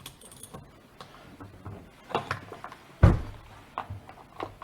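A wrench working the chainsaw's bar-mounting nuts loose: scattered metal clicks and small knocks, with one heavier knock about three seconds in.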